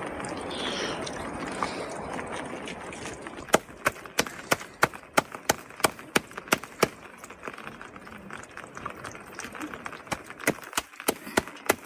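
A quick run of sharp knocks, about three a second, beginning a few seconds in, with a few more near the end.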